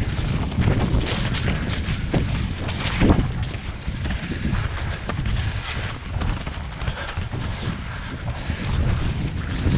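Wind buffeting the microphone, with scattered knocks and rattles and a louder thump about three seconds in.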